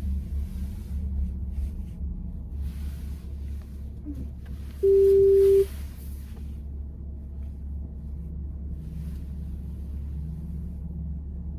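Steady low road and tyre rumble inside a VW ID.4's cabin while driving. About five seconds in, a single loud electronic beep sounds, holding one pitch for just under a second.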